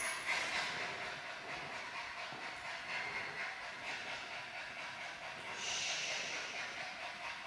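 A dog panting heavily and rapidly, a steady breathy hiss.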